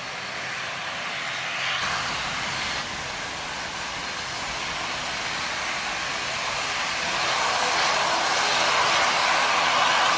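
Airliner's engines growing steadily louder as the plane approaches.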